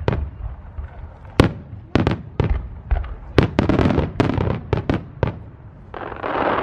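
Aerial fireworks bursting: a run of sharp bangs that comes thickest about halfway through, then a dense, steady crackling near the end.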